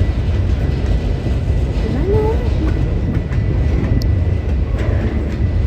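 A train passing close by: a loud, steady low rumble with a few sharp clicks.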